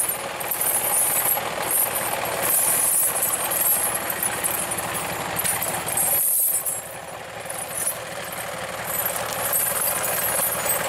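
Truck engine idling steadily with some rattle, dipping briefly about six seconds in.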